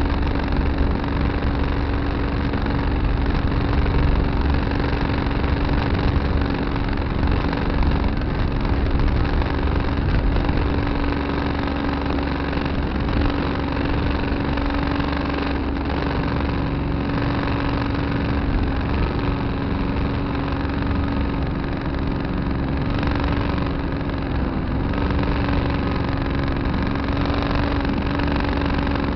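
Tractor engine running at a steady speed, a constant drone with no breaks.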